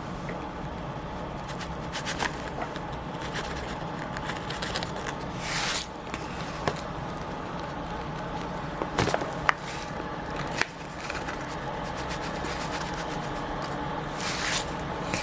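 Scattered light clicks and scrapes over a steady low hum, with two brief swishes, one about five seconds in and one near the end.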